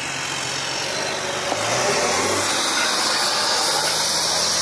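Off-road SUV's engine running steadily. A broad hiss rises about one and a half seconds in and holds.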